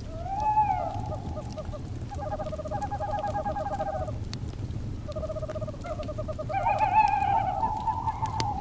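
Owls calling over a crackling wood fire. There is a rising-and-falling call near the start, then several rapid trilled calls, and a louder wavering call near the end. Sharp pops from the burning wood and a low steady rumble of the fire run underneath.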